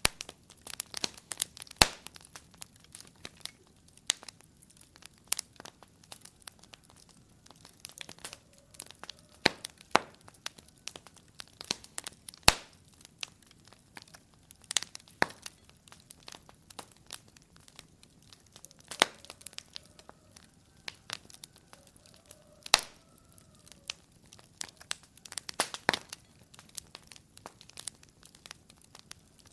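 Wood fire burning in a fireplace, crackling with irregular sharp pops of varying loudness, the loudest about 2, 12 and 23 seconds in. A faint high whistle comes and goes under the crackle twice.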